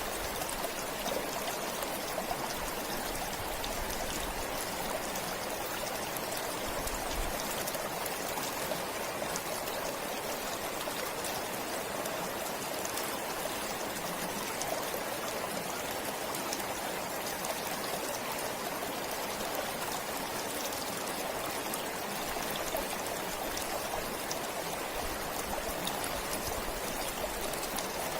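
Forest stream flowing steadily, a constant rush of water with fine splashing throughout.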